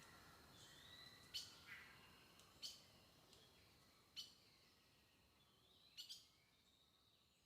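Faint birdsong: short sharp chirps every second or two over thin whistled notes, growing fainter.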